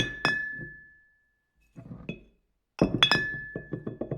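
Two quick runs of sharp, glassy clinks, each ending in a clear ringing ding that fades over about a second; the second run comes about three seconds in.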